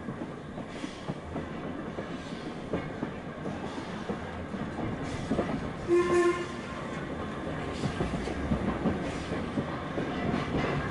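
Heritage railway carriage running along the line, heard from inside a compartment, its wheels clicking over the rail joints. About six seconds in, the locomotive gives one short whistle blast.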